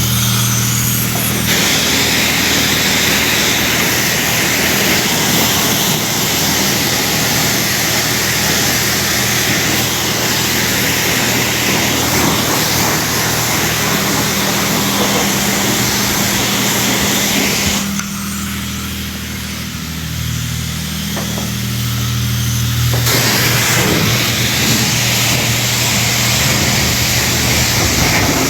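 Self-serve car wash high-pressure wand spraying soapy water onto a car: a steady loud hiss over a steady low hum. The hiss drops away for a few seconds past the middle, then resumes.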